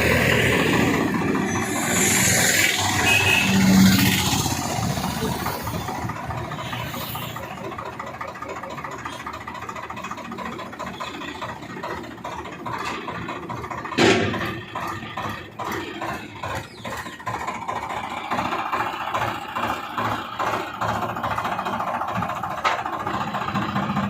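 Swaraj 960 tractor engine running, louder and noisier over the first several seconds, then settling into a steady pulsing beat. There is a single sharp knock partway through.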